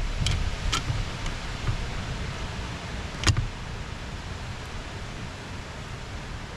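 Steady wind-like rustling, with a few sharp clicks: two close together in the first second and one louder one about three seconds in.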